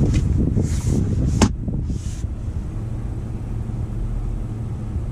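Low, steady rumble of the Dodge Durango R/T's 5.7-litre HEMI V8 idling, heard from inside the cabin. Over it, in the first two seconds or so, come a few short rustling handling noises and one sharp click about a second and a half in, typical of a console lid or outlet cover being handled.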